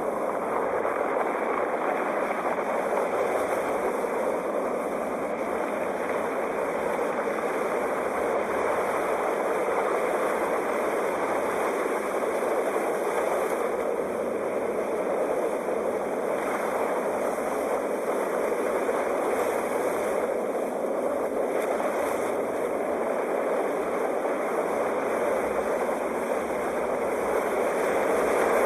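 Sea waves: a steady rushing wash of surf that swells gently in level without distinct breaks.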